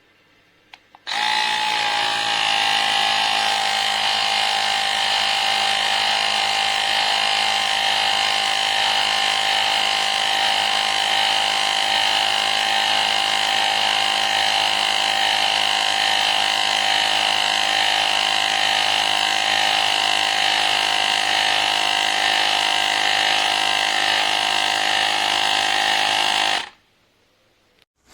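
Woowind AP2-P portable electric tyre inflator's small compressor running with a steady whine, switching on about a second in and cutting off abruptly near the end.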